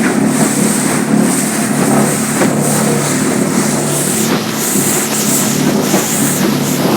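Small motorboat's engine running steadily under way, with water and wind rushing.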